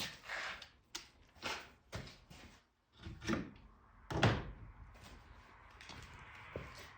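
Tools and parts being handled at the car: a string of separate knocks and clunks, the loudest about four seconds in, with a faint steady hiss in the second half.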